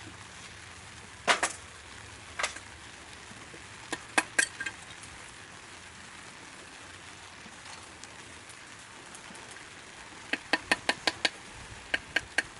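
Sharp clicks and light knocks of hard objects being handled over a faint steady hiss: a few single knocks, then a quick run of about six clicks about ten seconds in, and a few more near the end.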